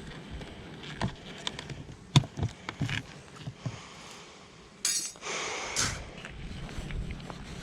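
Knocks and clicks of hive parts being handled as the hive is closed up, the sharpest about two seconds in, followed by a second or so of scraping and rustling.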